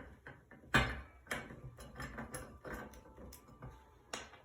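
A string of light knocks and clicks of metal parts being handled as a bathroom exhaust fan's mounting plate is separated from its motor. The loudest knock comes just under a second in.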